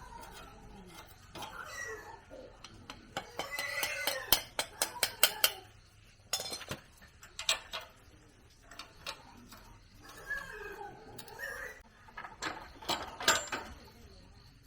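Sharp metallic clinks and taps, as of tools and parts knocked together, in clusters, with an animal calling in between: a few short calls near the start and again about two-thirds of the way in.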